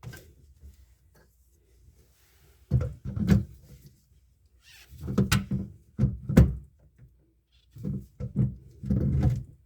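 Sink drain pipe fittings being handled and tightened under a bathroom sink: knocks, clunks and rattles in three short bursts, about three seconds in, five to six and a half seconds in, and near the end.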